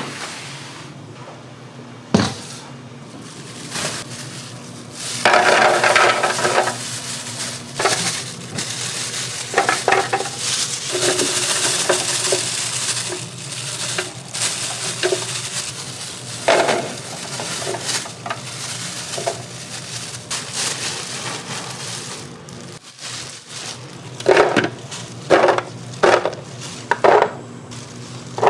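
Kitchen work: dishes and metal utensils clattering and scraping, with a stretch of hiss around the middle and a quick run of sharp knocks near the end.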